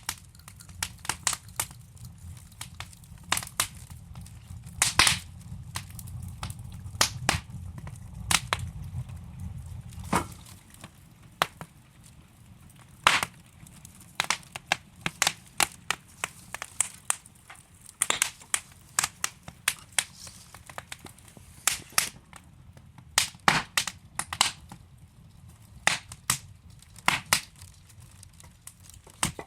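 Wood fire crackling in a fireplace: irregular sharp pops and snaps from burning logs over a low rumble of flame that fades out about ten seconds in.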